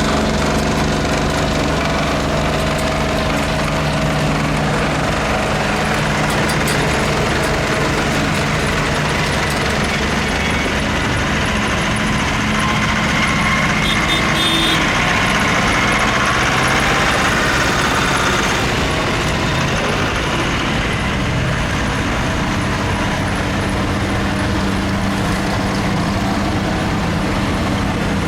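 Tractor engine running steadily and loudly, with a higher whine rising and falling around the middle.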